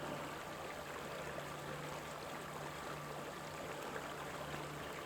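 Steady rushing of a flowing creek.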